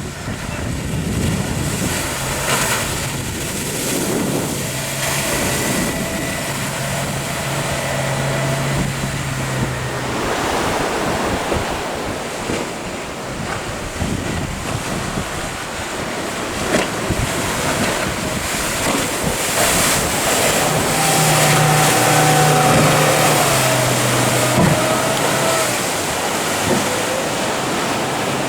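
Ocean surf breaking and wind buffeting the microphone, with a low steady engine hum in the first ten seconds and again for a few seconds later on.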